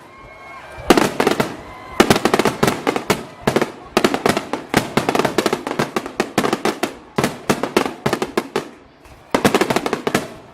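Fireworks finale: rapid volleys of bangs and crackling reports in dense clusters, with a short lull in the first second and another about eight seconds in.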